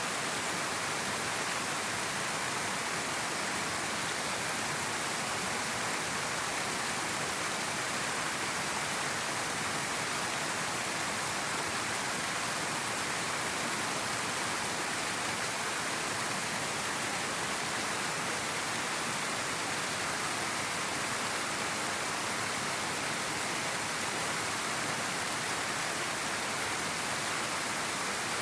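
River water flowing, a steady even rushing with no changes.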